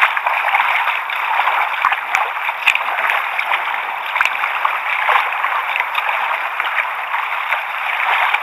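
Seawater lapping and sloshing against the hulls of sit-on-top fishing kayaks drifting on the tide, a steady rush with small splashes and ticks scattered through it.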